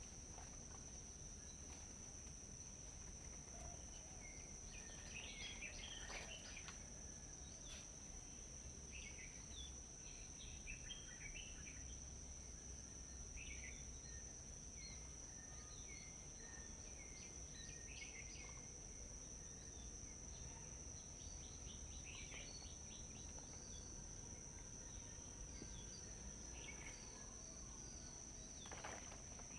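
Faint forest ambience: a steady, high-pitched insect drone, with small birds giving many short chirps and calls scattered throughout.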